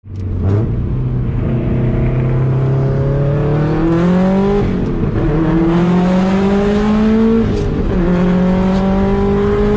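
2004 Subaru WRX STI's turbocharged flat-four with a Tomei Expreme Ti exhaust, heard from inside the cabin, accelerating hard through the gears. The engine note climbs steadily, drops at an upshift about halfway through, climbs again and drops at a second upshift near the end, then pulls on.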